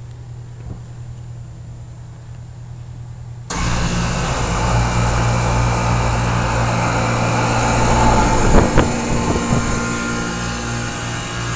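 York commercial air-conditioner condensing units running: a steady hum, then about three and a half seconds in a sudden jump to loud fan and rushing-air noise over the compressor hum, with a couple of brief knocks a little past the middle.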